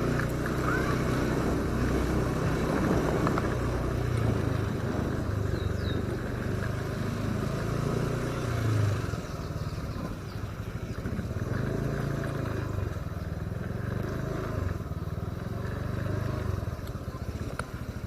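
Motorcycle engine running while riding, its pitch rising and falling with the throttle. About halfway through it eases off and runs slower and more unevenly.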